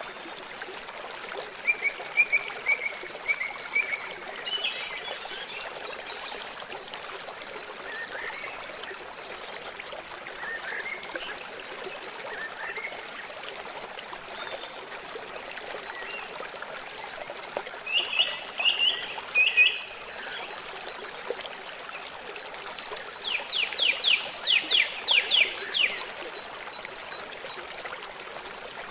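Steady trickling of a small stream with birds calling over it: a short series of chirps a couple of seconds in, a few calls about two-thirds through, and a fast run of about eight sharp notes near the end.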